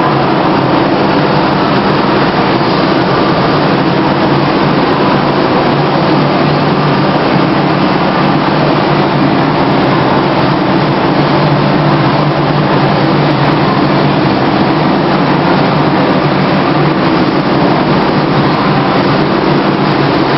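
Scania 143 truck's V8 diesel engine idling steadily.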